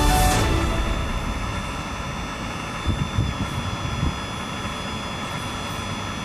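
A steady machine hum with a thin high whine over it and a few low thumps about three to four seconds in.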